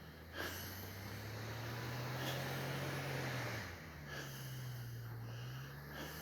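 A car engine running at a distance, its low hum rising and falling slightly in pitch as the car struggles in deep unplowed snow, with breathy noise close to the microphone and a few short knocks.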